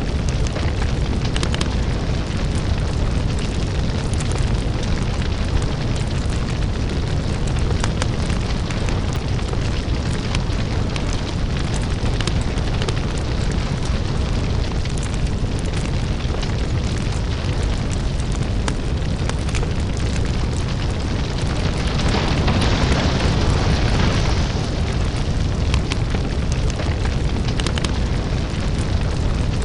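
Crackling lava: a steady deep rumble with dense crackles and scattered sharp pops, swelling briefly louder and brighter about three quarters of the way through.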